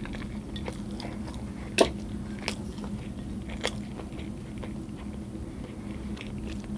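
A person chewing food close to the microphone, with a few sharp clicks of mouth and food sounds.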